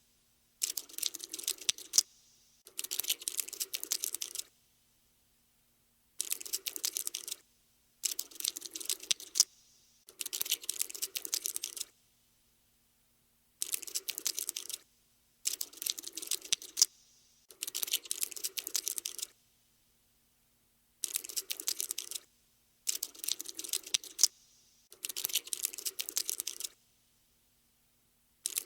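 Cockroach scuttling sound effect: bursts of rapid dry clicking, each lasting one to two seconds, repeating about eleven times with short silent gaps between them.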